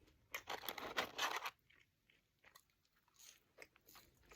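A person chewing and crunching French fries close to the microphone, with a run of crunchy bites in the first second and a half, then a few fainter chewing sounds.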